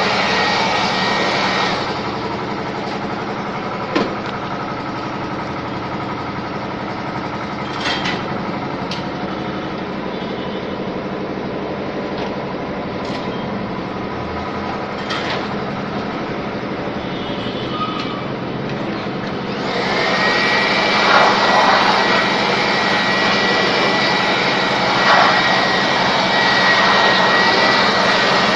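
Electric air blower running, a steady rushing hiss with a high whine, as dust is blown out of a note counting machine. It drops quieter for most of the first two-thirds, with a few light clicks and knocks from handling, then grows louder again about twenty seconds in.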